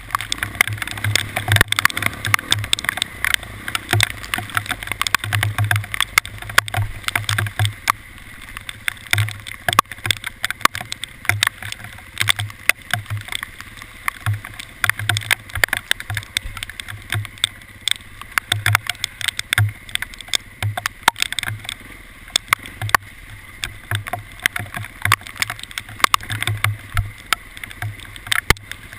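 Hailstones striking hard surfaces, a dense, irregular patter of sharp ticks, with uneven low thumps underneath.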